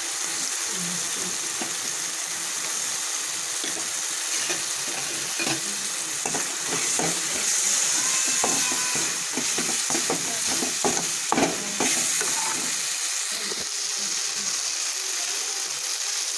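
Onion-tomato masala sizzling steadily in hot oil in a metal pan, while a perforated metal spoon stirs it, scraping and knocking against the pan. The scraping and clicking come mostly in the middle stretch, busiest just past the middle.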